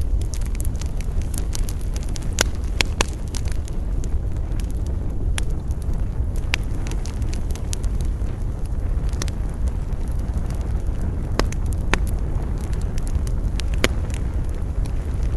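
Campfire burning, with a steady low rumble of wind under the fire and sharp crackles and pops from the burning wood every second or so.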